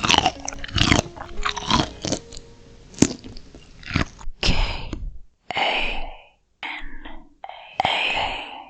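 Close-miked crunchy biting and chewing of steamed shrimp and chilli peppers: sharp crackling bites in the first few seconds, then wetter chewing broken by abrupt gaps.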